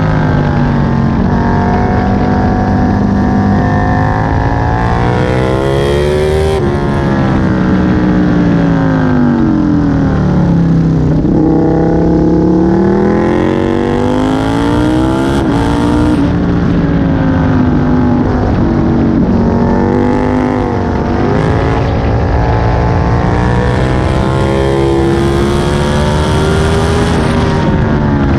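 Aprilia Tuono 1000's 60° V-twin engine heard on board at speed on track, the engine note repeatedly rising under acceleration and falling away under braking. Wind rush swells at the fastest moments.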